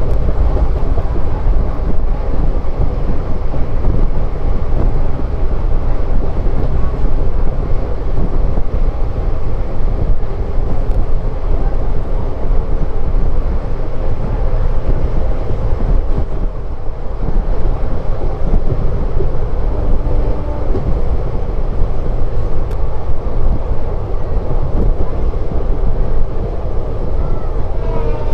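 Diesel-hauled passenger train running along the line, heard from aboard: a loud, steady rumble of wheels on rail and coach noise.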